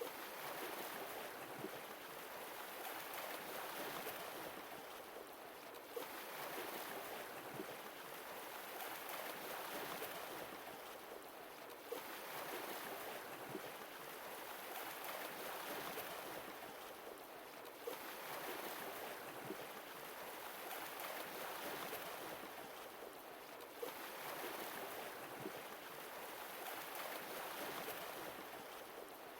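Sea waves washing in and drawing back, one swell about every six seconds, with occasional small pops.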